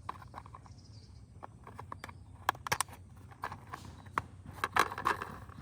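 Plastic toy-car parts clicking and knocking together as they are handled and fitted, in irregular sharp taps that grow busier from about halfway through.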